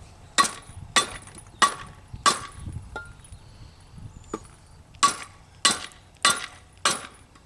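Hammer blows driving a bearing race into a rake gearbox case through a wooden block: four sharp strikes about 0.6 s apart, a pause of about two seconds, then four more, each with a short metallic ring. The race is not yet fully seated.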